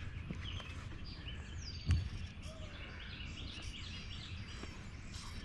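Small birds chirping and whistling repeatedly, some calls falling in pitch, over a steady low outdoor rumble, with one sharp click about two seconds in.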